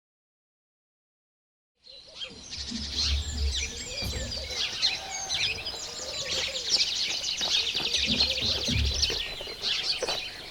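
Silent for about the first two seconds, then many small birds chirping and twittering at once in a dense chorus. Low rumbles of wind or handling on the microphone come in about three seconds in and again near the end.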